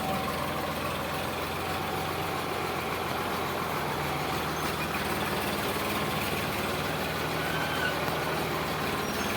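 Sonalika DI 745 tractor's diesel engine running steadily.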